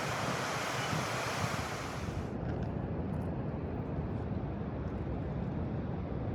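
Steady rushing of the Colorado River, with wind on the microphone. About two seconds in the sound turns abruptly duller, losing its high hiss, and the lower rushing carries on.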